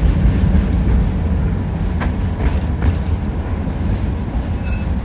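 Tram running on rails, heard from inside the passenger car: a steady low rumble of wheels and running gear, with a few clacks over rail joints about two to three seconds in and a brief high-pitched squeal near the end.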